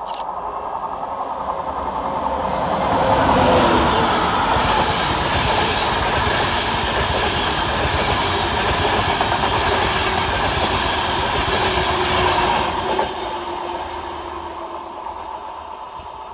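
Class 91 electric locomotive hauling a rake of InterCity 225 coaches through the station at speed: the train's rumble and wheel-on-rail noise builds over the first three seconds, holds steady as the coaches run past, and fades away from about thirteen seconds in.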